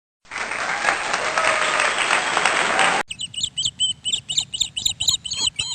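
Parrot calls: about three seconds of dense, noisy flock chatter, then a quick run of short, high chirps repeated several times a second.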